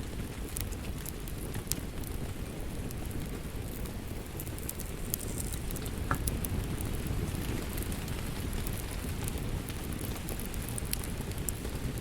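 Wood fire crackling in a fireplace: a steady low rumble of burning with scattered sharp pops and snaps, a few a second.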